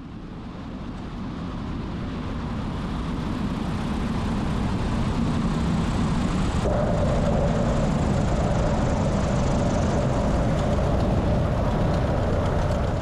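Light aircraft engine and propeller running at power, heard as a dense rumble with rushing noise. It builds over the first few seconds and then holds steady. A steady higher tone joins about halfway through, and the sound cuts off abruptly at the end.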